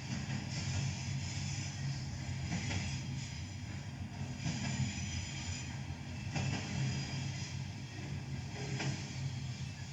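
BNSF diesel locomotives' engines running with a steady low hum, with a few faint knocks at intervals.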